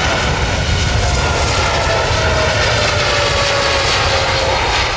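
Jet airliner's engines running loud and close, a heavy rush with a whine that slowly falls in pitch as the aircraft goes by.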